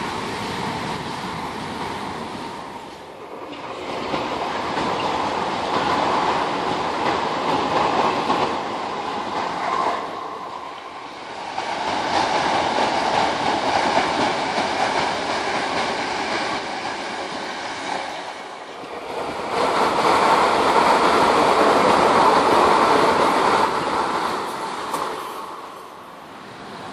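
Southern electric passenger trains running past close by, wheels on the rails making a steady noise. It comes in several passes, each several seconds long, with the sound dropping briefly between them.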